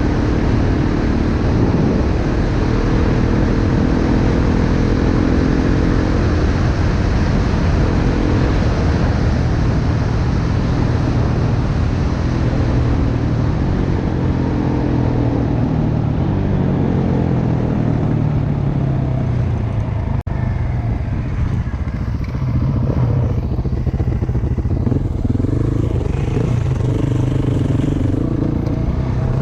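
Dirt bike engine running under way, its pitch rising and falling with the throttle, over steady wind noise. The wind noise eases for the last several seconds.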